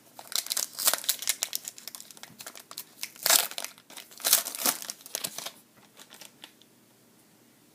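Plastic wrapper of a trading-card pack crinkling as it is torn open and pulled away, a dense run of crackles that stops about five and a half seconds in.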